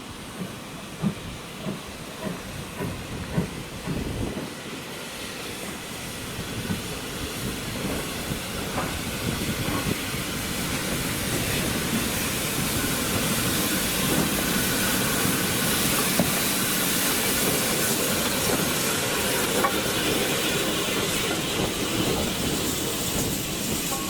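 Steam locomotive running past with steam hissing, growing steadily louder over the first half and then holding, with a few sharp knocks in the first few seconds.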